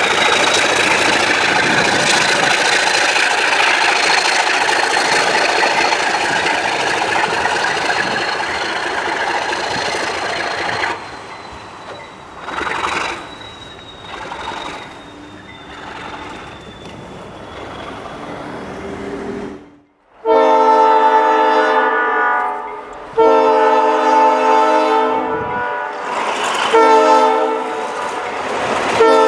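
A passing train's loud, steady rush with a faint high whine, fading to a quieter rumble about eleven seconds in. After a brief break, an Alco diesel locomotive's horn sounds several notes together in two long blasts, a short one and a further long one: the grade-crossing signal.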